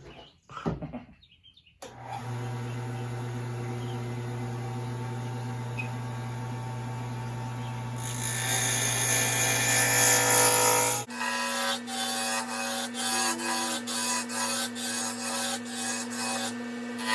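Wood lathe starting up about two seconds in and running with a steady hum as a pen blank is turned; from about eight seconds a tool scraping on the spinning marblewood adds a brighter rasping sound. About eleven seconds in the sound changes abruptly to a higher hum with a run of short, repeated rubbing strokes on the turning blank.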